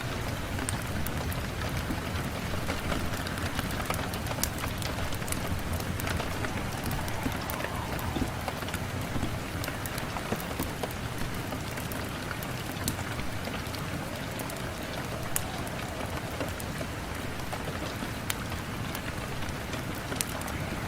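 Steady rain falling on a window, with a continuous hiss and scattered sharp ticks of individual drops.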